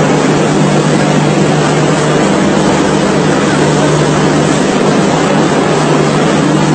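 Indian Railways passenger train coaches rolling past, a loud, steady rushing rumble with a low hum and no clear wheel clicks.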